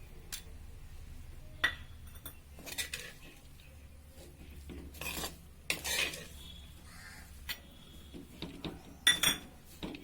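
Metal spoon clinking and scraping against a metal cooking vessel in scattered, irregular strokes, with a sharp ringing clink about nine seconds in.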